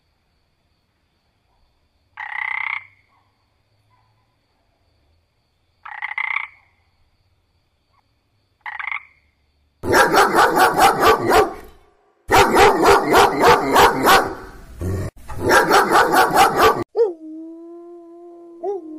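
Three short frog croaks a few seconds apart. Then comes a loud, rapid run of dog barks, about four or five a second, for several seconds. Near the end a dog's long howl begins, holding its pitch with slow glides.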